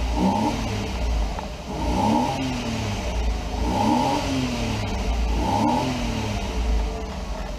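2001 Porsche Boxster's 2.7-litre flat-six engine being blipped from idle four times, about every second and a half to two seconds. Each time the revs rise quickly and then fall back to idle.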